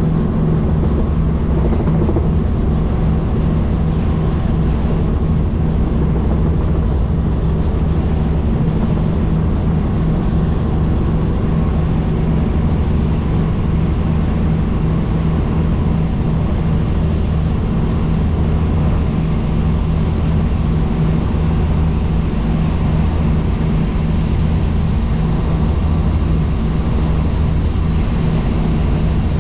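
Helicopter in flight: steady rotor and engine noise with a fast, even beat and a low hum.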